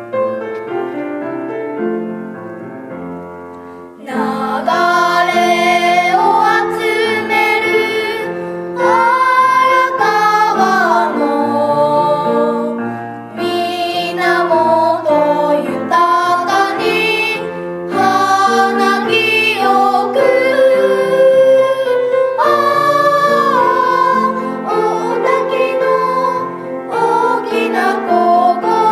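A piano plays an introduction, then voices join in about four seconds in, singing a melody over the piano accompaniment.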